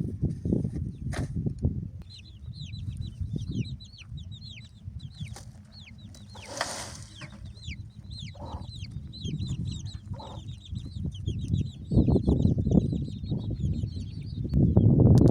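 Birds chirping: many short, high chirps, each falling in pitch, repeating rapidly over low rustling and knocking that grows louder near the end.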